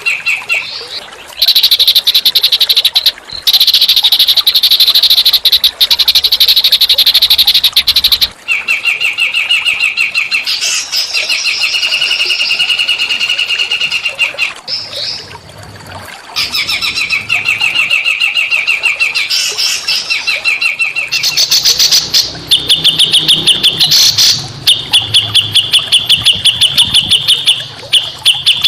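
Small songbird singing a fast trill of rapidly repeated high notes, in loud phrases several seconds long with short breaks between them.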